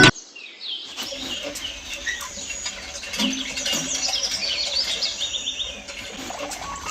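Several small birds chirping, many short high calls overlapping.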